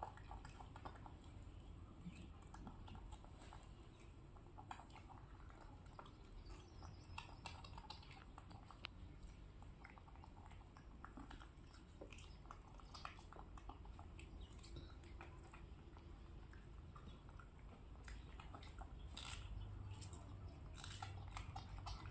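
Faint chewing and crunching as a toddler and a baby macaque bite into and eat crisp raw vegetable pieces, with scattered small clicks. It grows a little louder near the end.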